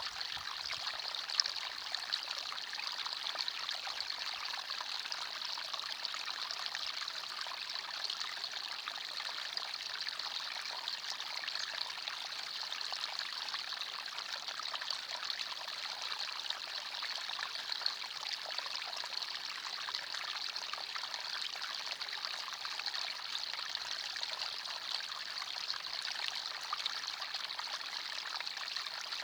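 Small forest stream trickling and burbling over stones, a steady even rush of water.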